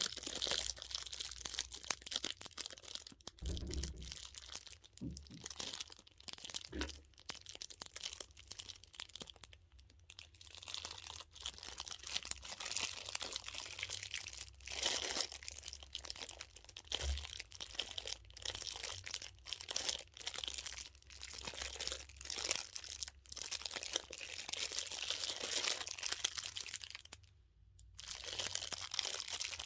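Plastic vinyl crinkling and crackling close to the microphone as it is handled and squeezed around a dumpling-shaped squishy toy: a dense run of small crackles with a few soft thumps, and a brief pause about two seconds before the end.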